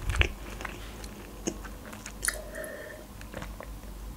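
Close-miked mouth sounds of chewing a fried breaded chicken chop: soft, scattered wet clicks and smacks.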